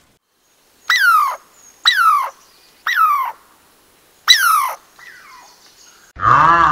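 Animal calls: four short high calls about a second apart, each sliding down in pitch, then a louder, lower call near the end that rises and falls.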